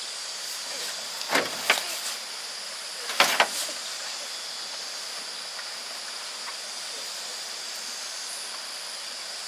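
Steady hiss, with two brief clusters of sharp knocks, about one and a half and three seconds in.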